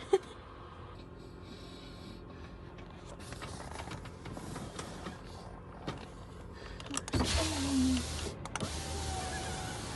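Truck cab's electric power window motor running for about a second, its pitch falling as the glass moves, after several seconds of quiet handling clicks and rustles. A low steady hum follows to the end.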